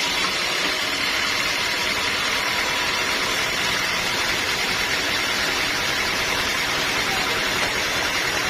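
Sawmill machinery running steadily with an even mechanical noise.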